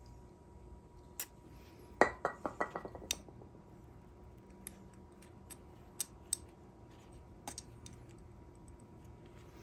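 Small metal carburetor parts clinking on a hard surface: a quick run of about six ringing clinks about two seconds in, then scattered light clicks.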